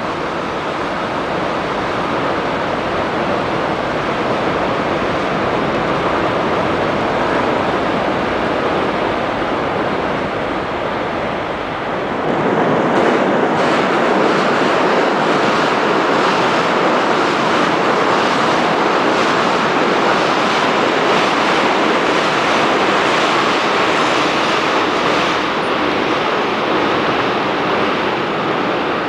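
Trains rolling across a steel railway bridge: a steady rumble of wheels on rails. It grows louder about twelve seconds in as a nearer train passes, with faint repeated clicks over the rails.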